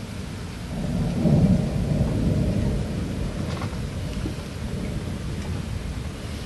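Thunder rumbling over steady rain: a low roll swells about a second in, is loudest a moment later, then dies away slowly under the rain.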